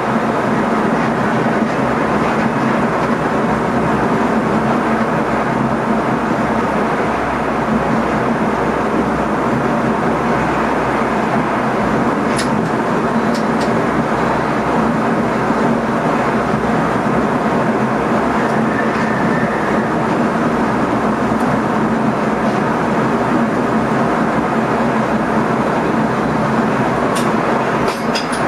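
NS ICM electric multiple unit running along the track, heard from inside the driver's cab: a steady rush and rumble of wheels and air with a constant hum. A few faint ticks come around the middle and near the end.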